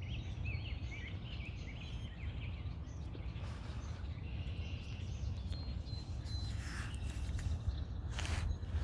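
Small birds chirping in quick, repeated short notes over the first couple of seconds, then a thinner high call, over a steady low outdoor rumble; a few brief rustling swishes near the end.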